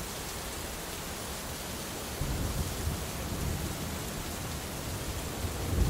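Steady hiss of heavy rain, with a low rumble of thunder starting about two seconds in and building toward the end.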